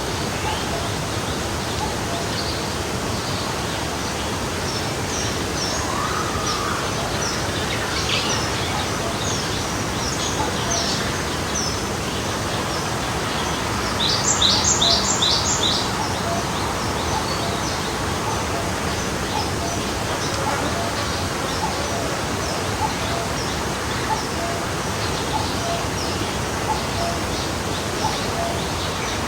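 Steady rushing of a forest stream, with small birds chirping over it. About halfway through, one bird gives a quick run of five or so loud, high notes.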